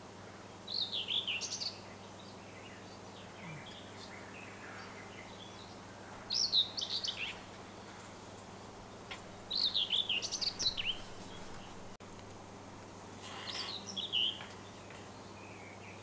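Songbird singing four short, fast warbled phrases of about a second each, a few seconds apart, over a steady low background hum.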